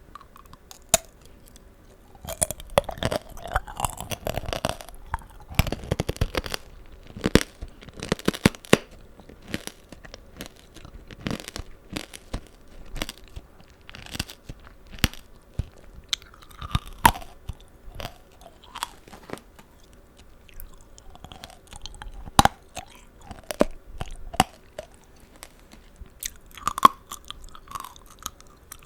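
Close-miked chewing of tanghulu, the hard candied sugar shell on strawberries and green grapes cracking between the teeth. Sharp, irregular crunches come throughout, with wet, juicy chewing between them and a denser run of crunching a couple of seconds in.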